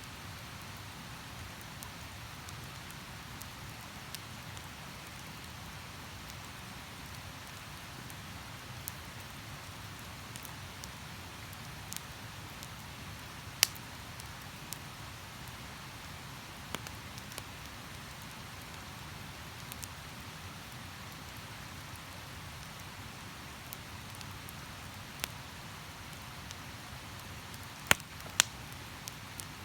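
Wood campfire crackling, with scattered sharp pops, the loudest about halfway through and twice close together near the end, over the steady rush of river water.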